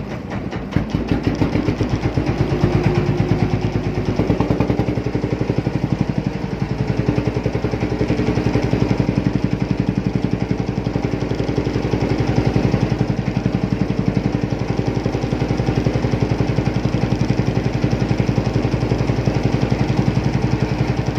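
Boat engine running steadily, its rapid even firing pulses heard throughout, picking up a little about a second in.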